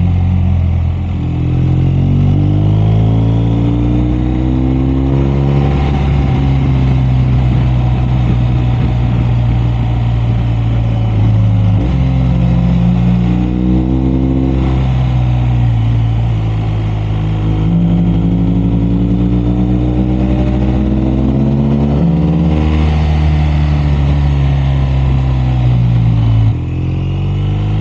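BMW R 1250 RS boxer-twin engine running under way, its pitch rising and falling with the throttle and dropping suddenly a couple of times, over wind and road noise.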